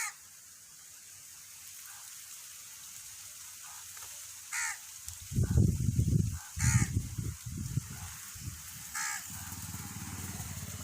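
Crows cawing: four short caws spread a few seconds apart. Irregular low rumbling is heard in the middle.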